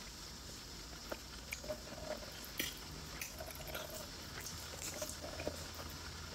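Close-miked chewing of a steamed momo dumpling, with scattered soft wet mouth clicks and smacks.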